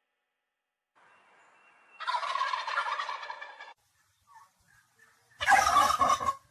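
Domestic fowl calling in two loud, rough bursts: one about two seconds in, lasting over a second, and a louder one near the end.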